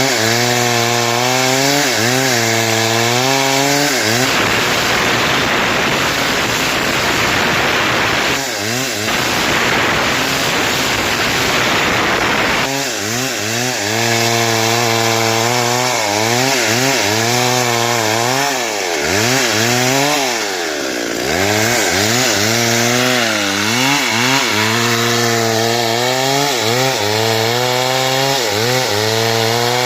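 Stihl chainsaw cutting through wood, its engine pitch repeatedly dipping and recovering as the chain bites. For several seconds in the middle the engine tone gives way to a dense, rough sawing noise.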